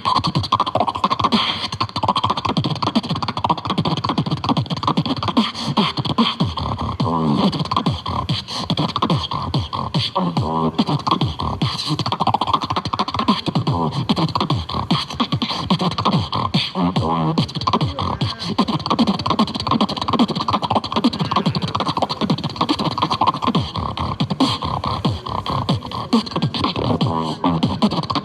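Continuous vocal beatboxing: fast, dense rhythm of mouth-made kicks, snares and hi-hats with hummed pitched sounds woven in, without a pause.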